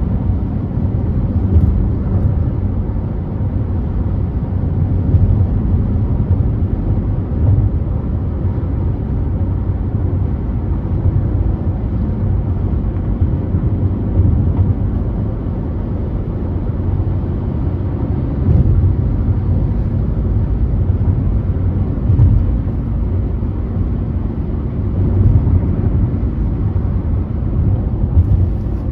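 Steady low rumble of a car cruising on a freeway: tyre and road noise with the engine's hum underneath, swelling slightly every few seconds.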